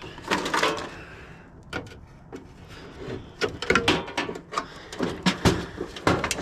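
Metal parts of a water heater being pulled apart and handled: a string of clanks and knocks with scraping and sliding between them.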